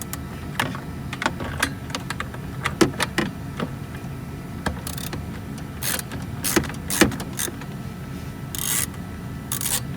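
Irregular clicks, taps and short scrapes of hand tools and small metal screws being handled while loosening fasteners, over a steady low hum.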